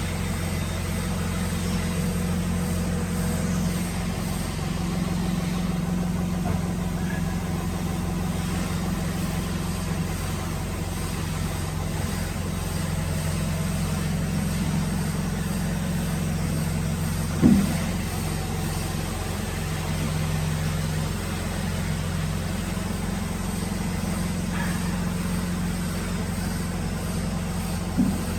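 Steady low hum of a running woodworking machine's motor, with two sharp knocks, one about two-thirds of the way through and one near the end.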